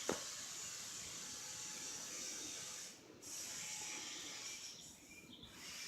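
Faint, steady hiss of outdoor background noise with no distinct sound standing out. It dips briefly twice.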